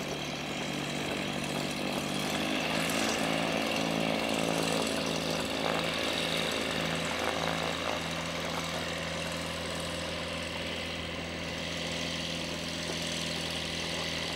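Light aircraft's piston engine and propeller running steadily at an even pitch, growing slightly louder for a few seconds and then easing back.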